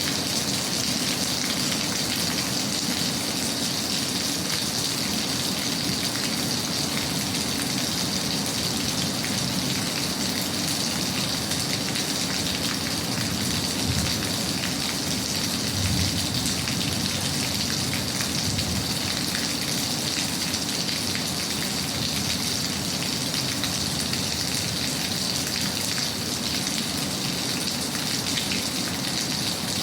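Steady rain falling, an even patter, with two brief low thuds about halfway through.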